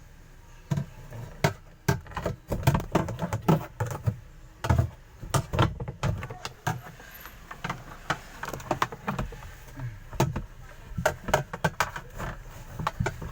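Irregular clicks, knocks and rattles of parts being handled while a clogged washing-machine drain is cleared of debris.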